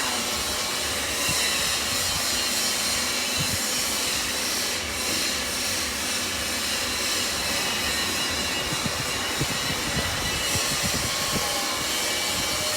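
Electric granite cutting machine running steadily, a continuous noise with a faint high whine.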